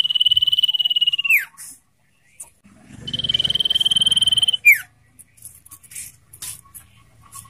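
Common iora singing: two long, rapidly trilled whistles held on one pitch, each ending in a quick downward slur, then a few short chips.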